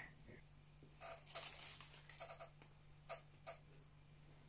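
Near silence with a few faint, brief mouth clicks and smacks from chewing food.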